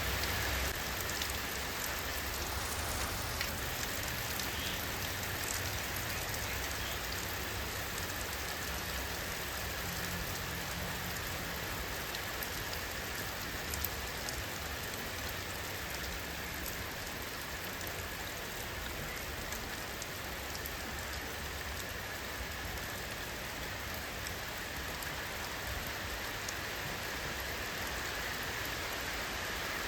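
Steady rain falling, an even hiss with scattered drop ticks and one slightly louder tick about halfway through.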